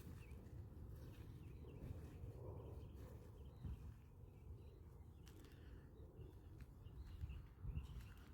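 Faint outdoor ambience: a low steady rumble with scattered faint bird chirps and a few soft clicks.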